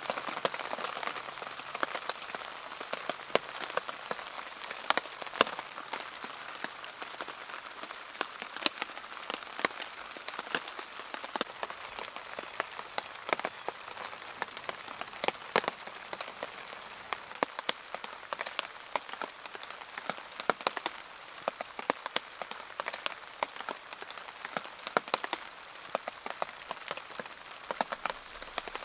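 Steady rain falling, with many individual drops hitting close by as sharp taps.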